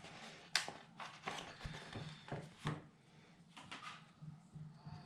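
Thin die-cut paper letters and cardstock being handled: several short rustles and light taps in the first three seconds, then fainter rustling.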